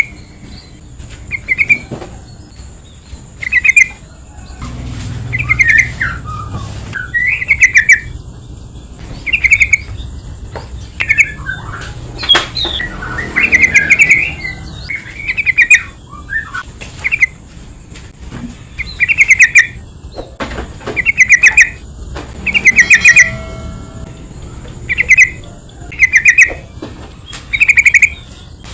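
Yellow-vented bulbul (trucukan) calling: short, bubbly, chattering phrases repeated every second or two, with a faint steady high-pitched tone behind.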